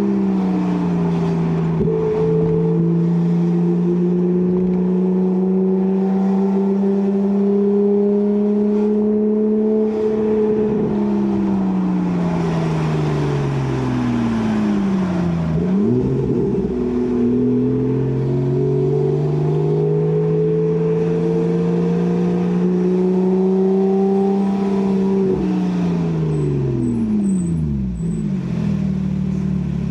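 Porsche 991 Carrera S 3.8-litre flat-six running through a Kreissieg valvetronic cat-back exhaust, held at steady revs. The pitch falls away about halfway through, climbs back and holds steady, then falls again near the end.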